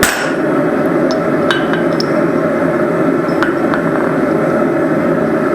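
One hammer strike on steel right at the start that rings briefly, followed by a few light metallic clinks of tools and stock on the anvil, over a steady rushing noise.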